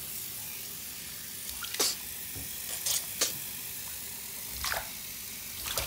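A capuchin monkey splashing in bathwater: a handful of short, sharp splashes over a steady hiss of water.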